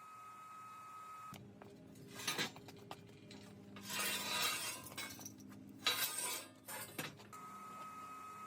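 Clinking and rattling of hard objects being handled, in four short bursts, the longest about half a second.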